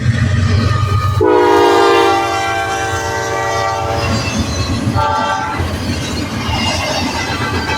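Freight locomotive air horn sounding a long blast and then a short one a second later, over the diesel locomotive's low rumble and the train's wheels clattering past on the rails.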